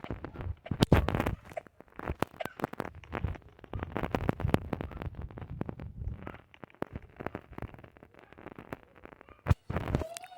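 Irregular crackling and clicking, many sharp, uneven snaps in quick succession, with a short pitched call that rises and falls right at the end.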